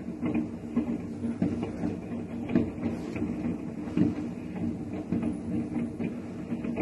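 Many consumer fireworks going off across a city on New Year's Eve: a dense, irregular patter of pops and bangs, with louder bangs about two and a half seconds and four seconds in, over a steady low hum.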